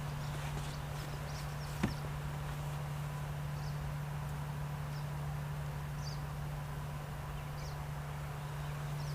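Outdoor ambience: wind rumbling on the microphone under a steady low hum, with short faint high chirps every second or so and a single sharp click about two seconds in.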